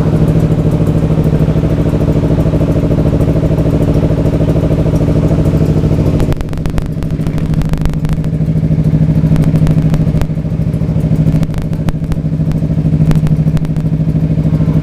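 Two-stroke motorcycle engine running steadily at idle through a Corse Project racing silencer and AHU expansion chamber, with brief dips in level about six and ten seconds in.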